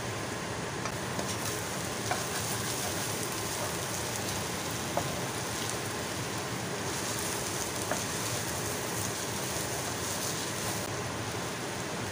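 Chopped vegetables in black bean garlic sauce sizzling in a stainless steel frying pan while being stirred with a spatula. A few sharp clicks come as the spatula knocks against the pan.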